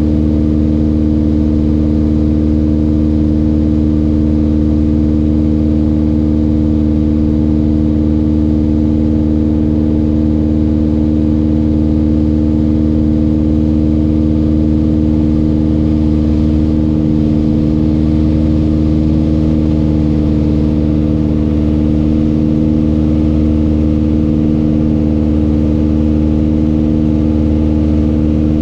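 Mooney M20J's four-cylinder Lycoming IO-360 engine and propeller running at steady power, an even drone with no change in pitch.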